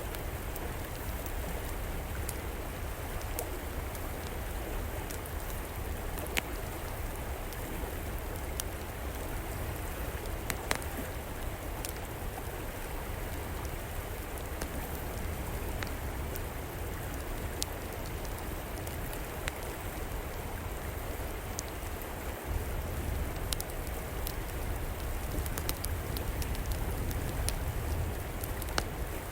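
River water flowing in a steady rush, with an outdoor wood fire crackling over it in scattered, irregular sharp pops.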